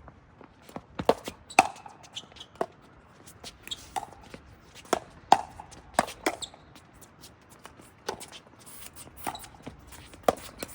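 Pickleball rally: paddles striking the hard plastic ball in a string of sharp pops, some with a short hollow ring, at an uneven pace, with fainter taps between them.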